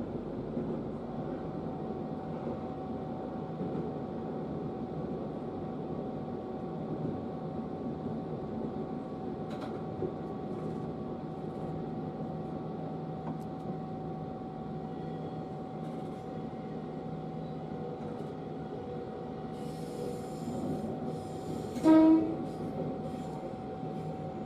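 811 series electric train running, heard from behind the driver's cab: a steady running noise with a constant motor whine, and one short, loud horn blast near the end.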